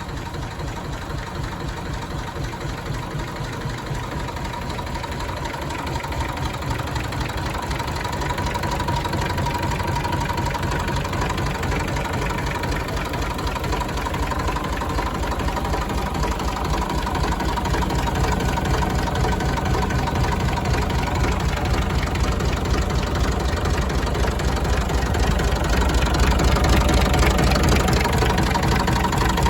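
1965 Massey Ferguson 135 tractor engine running at idle with a steady knocking beat, growing gradually louder over the stretch.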